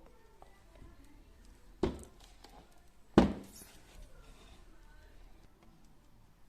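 Household items being handled and set down, with two sharp knocks, about two and three seconds in, the second the louder, and light clicks between.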